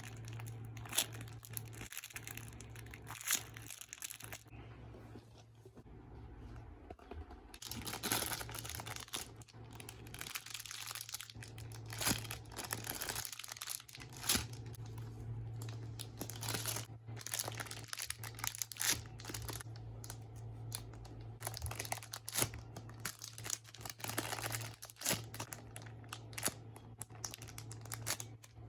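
Squishy toys being handled, with crinkling and rustling in irregular bursts over a steady low hum.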